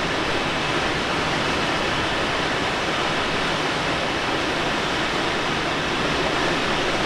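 Steady rushing airflow noise in the cockpit of a Let L-13 Blaník glider gliding in on its landing approach.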